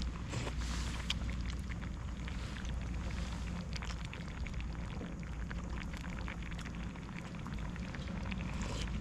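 Wood campfire crackling, with scattered irregular pops over a steady low rumble.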